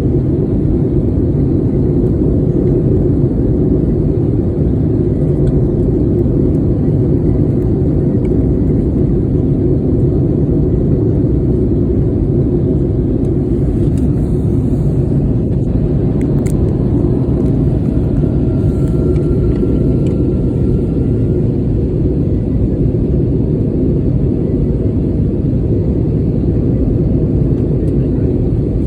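Steady, loud rumble of a passenger airliner's cabin in flight: engine and airflow noise, with a faint thin tone for a couple of seconds past the middle.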